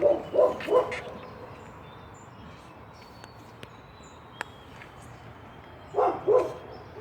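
A dog barking in short bursts: three quick barks at the start and two more near the end.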